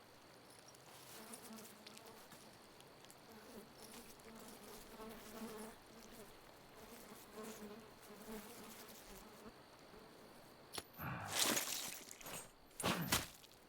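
Insects buzzing, a wavering drone that comes and goes. Near the end, a sharp click is followed by several loud, rough bursts of noise.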